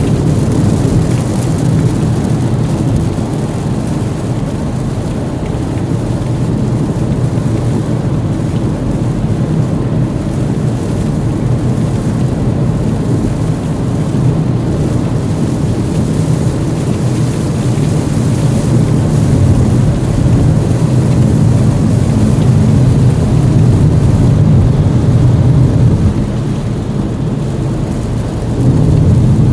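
Steady low rumble of a car driving in heavy rain, with rain on the car mixed in. It eases a little for a couple of seconds near the end.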